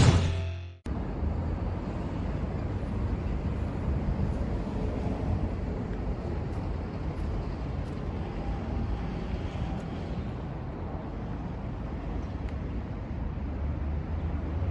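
Suzuki V-Strom 250's parallel-twin engine running steadily at idle, with no revving.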